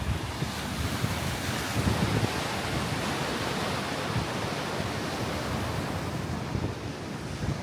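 Sea surf washing on the shore, a steady rushing that swells about two seconds in, with wind buffeting the microphone.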